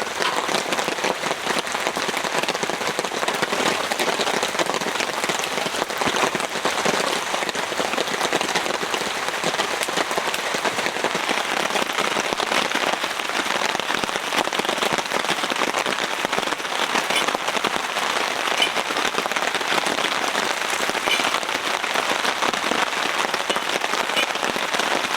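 Heavy rain falling steadily, a dense even patter of drops on a tarp overhead.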